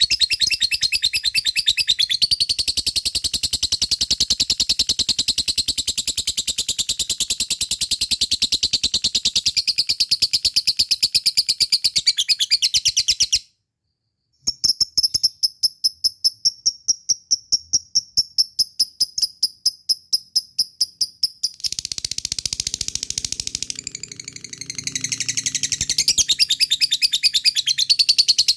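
Lovebird 'ngekek' song: a long chattering trill of fast, evenly repeated high chirps. It cuts out for about a second near the middle, then resumes. Near the end comes a busier, rougher stretch of chatter, and then the fast trill returns.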